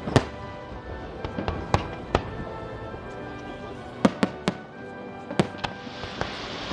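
Fireworks going off: about ten sharp bangs at uneven intervals, some in quick pairs and triples, over music playing. Near the end a hissing crackle builds up.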